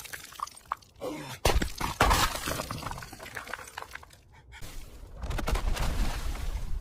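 Thick ice being smashed through and shattering. A few sharp knocks lead into a loud breaking crash about a second and a half in, and a spell of crumbling and cracking follows. From about five seconds in, a steady low rumble sets in.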